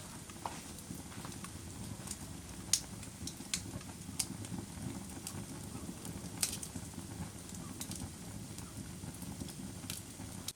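Wood fire crackling in a fireplace: a steady low rumble of flames with irregular sharp pops and snaps, the loudest about 3 s in and again about 6.5 s in.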